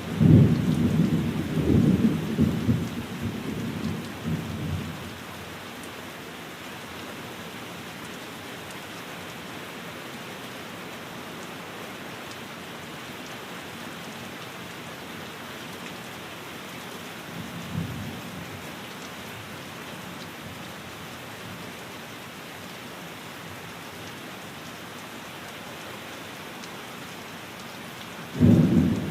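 Steady heavy rain on a window, with rolling thunder rumbling loudly for the first few seconds, a brief low rumble about eighteen seconds in, and another peal starting near the end.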